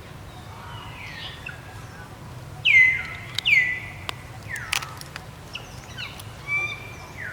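Macaque giving a series of high-pitched calls that each slide down in pitch, the loudest about three seconds in. A few sharp clicks come in between.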